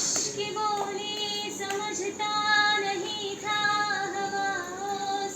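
A high female voice singing a wordless melody in long held notes that glide between pitches.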